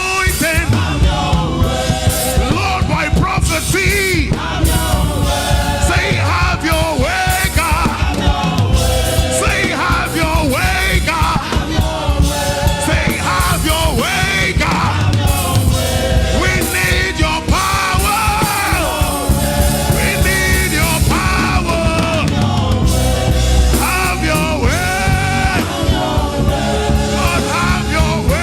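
Church choir singing gospel praise over a loud live band with a driving beat.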